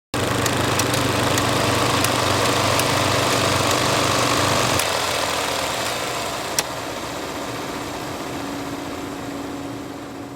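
Film reel noise: a steady mechanical running sound with a low hum and scattered clicks and pops, starting abruptly. About halfway the low hum drops away, one sharp click follows, and the sound fades out at the end.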